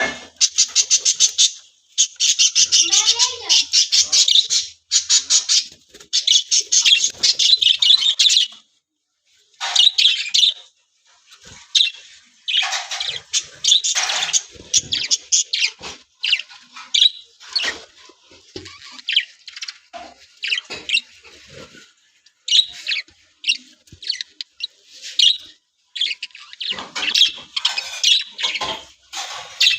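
A colony of budgerigars chirping and chattering in rapid runs of high chirps, with a brief pause about nine seconds in.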